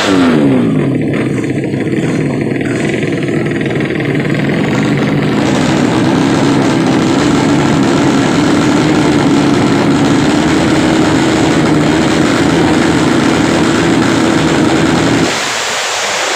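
Drag racing motorcycle engine running loud and steady at a held speed. The low part of the sound drops away about a second before the end.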